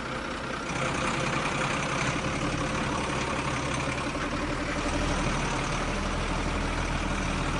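Heavy vehicle engine running steadily with a low rumble. It comes in at the start and grows a little louder about a second in.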